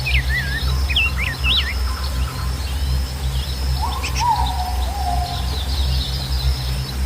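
Small birds chirping in quick rising and falling phrases, busiest in the first two seconds and again about four seconds in, with a lower gliding call in the middle. Beneath them runs a steady low rush of flowing water and a thin high insect drone.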